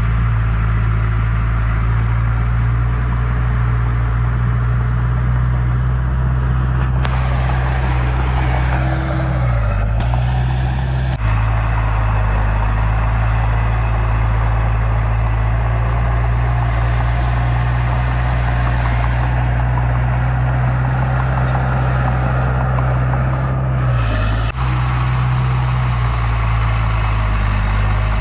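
Heavy diesel engine of earthmoving machinery running steadily at an even pitch. There is a rushing noise for a few seconds around ten seconds in, and the engine note shifts briefly then and again near the end.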